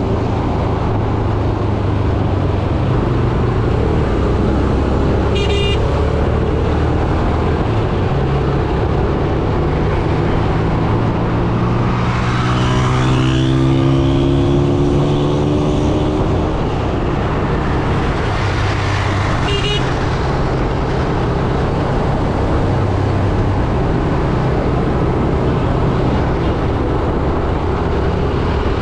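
Yamaha YBR 125G single-cylinder motorcycle engine running on the move through traffic, its pitch stepping up and down with throttle and gear changes and rising for a few seconds midway. Two short high horn beeps sound, one early and one near the twenty-second mark.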